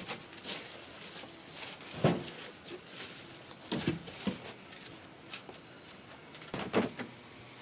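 Cut pieces of plywood knocking and bumping as they are handled and carried, about four separate knocks spread across a few seconds.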